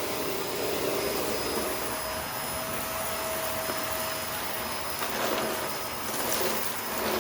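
Shark vacuum cleaner running steadily, with a motor whine over the rush of air. It is losing suction, a fault the owner puts down to dust getting past its cyclones and clogging the filters.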